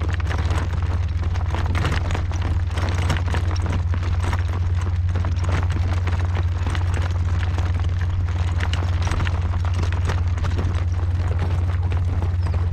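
Strong wind buffeting the microphone in a steady low rumble, with a harnessed horse's hooves clip-clopping under it.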